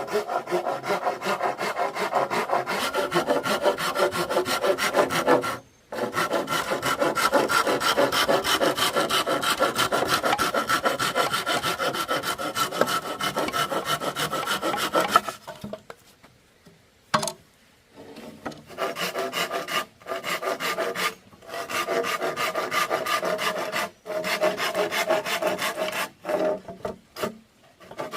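Hand sawing through bamboo in rapid back-and-forth strokes, the hollow cane ringing. It stops briefly about six seconds in and for a few seconds just past the middle, then starts again in shorter runs.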